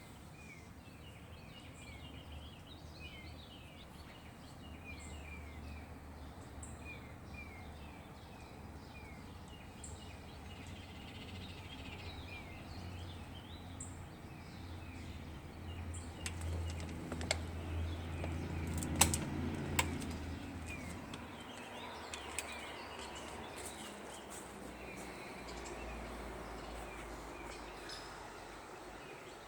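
Birds chirping with short, repeated falling calls over the low rumble of a heavy truck's engine. The rumble swells to its loudest about two-thirds of the way through, with several sharp bangs and rattles as the truck passes, and a deeper rumble comes up near the end.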